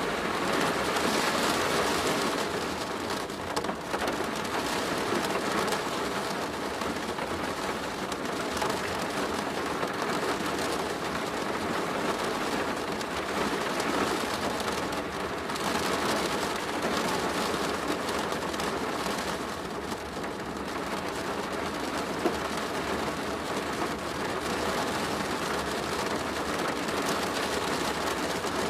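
Steady rain pattering on a plastic roof, a dense even hiss of drops with one sharper tap about three-quarters of the way through.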